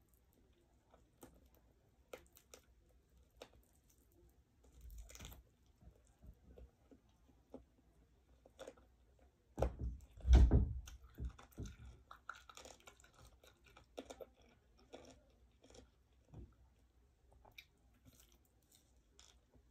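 Chewing and biting: meat being bitten off a grilled chicken inasal drumstick and chewed, with small wet mouth clicks and crunches, and one louder, deeper thump about halfway through.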